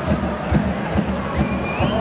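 Football stadium crowd noise with supporters singing and chanting, over low thumps about twice a second.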